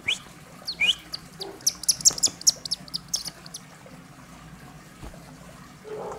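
A bird calling: two short rising whistled notes in the first second, then a quick run of sharp, high-pitched chirps lasting about a second and a half.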